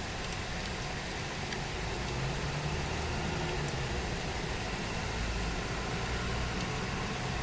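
Steady rain hiss, with a low mechanical hum that comes up about two seconds in and holds.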